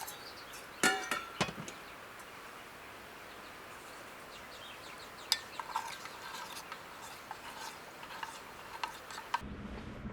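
Metal utensils and dishes clinking now and then, loudest in a cluster about a second in. Near the end the sound changes to a low steady hum.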